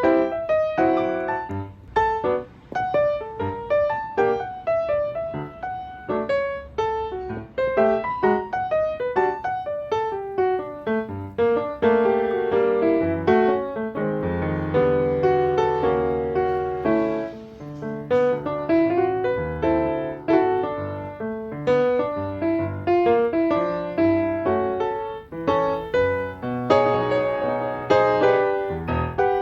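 Background piano music: a flowing melody of quick notes over chords and a bass line.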